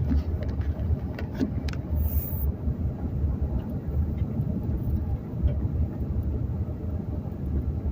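Steady low rumble of a car driving on a dirt and gravel road, heard from inside the cabin, with a few light clicks between one and two seconds in.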